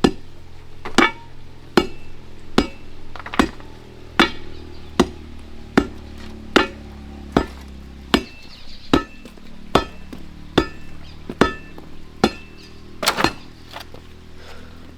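Steady run of sharp strikes with a short metallic ring, about one every 0.8 seconds: a steel crowbar being driven into hard ground to dig post holes.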